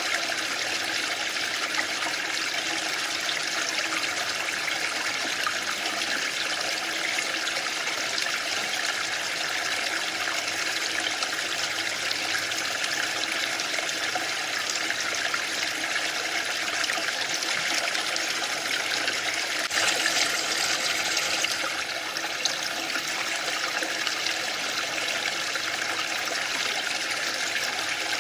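Waterfall: steady rushing of falling water, briefly louder and hissier about twenty seconds in.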